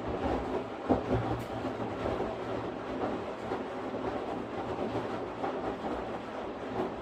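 Washing machine running: a steady rumbling wash noise over a low hum, with irregular clattering knocks and a sharper knock about a second in.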